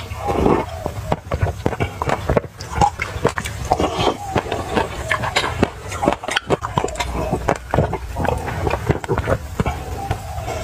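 Close-miked chewing of crunchy sesame seeds: a dense, irregular run of small crackles and clicks, with mouth sounds, as they are eaten from a glass mug with a spoon.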